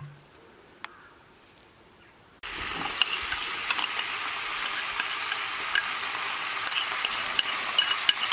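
Shredded chicken and chopped onion sizzling in hot oil in a wide frying pan, with many small crackles. It starts suddenly about two and a half seconds in, after a quiet start with a single click.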